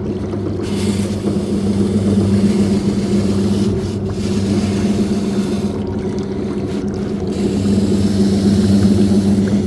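Shoe washing machine running: a steady motor hum with water churning and sloshing, swelling and easing in waves.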